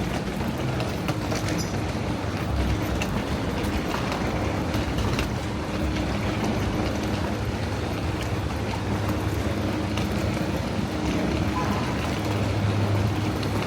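Steady city street traffic: the continuous din of passing vehicles, with a low engine hum underneath.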